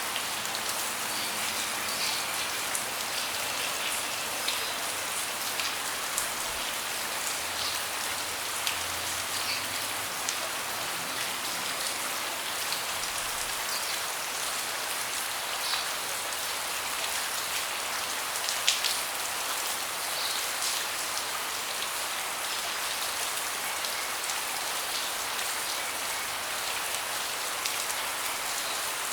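Steady rain falling on a deck, a dense even hiss with individual drops ticking through it and one louder drop about two-thirds of the way in.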